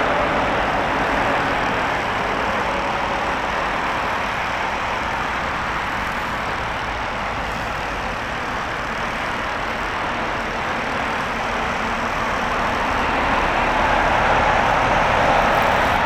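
Airbus A340-300's four CFM56 turbofan engines heard on approach to landing: a steady jet roar that dips slightly midway and swells over the last few seconds.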